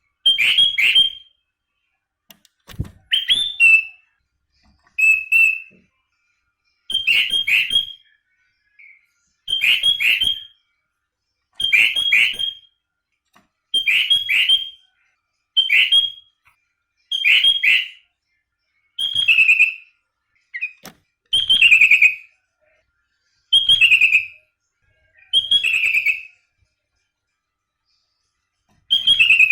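Sooty-headed bulbul (kutilang) singing: short, clear whistled phrases, each about a second long, repeated about fourteen times at roughly two-second intervals, with a longer pause near the end.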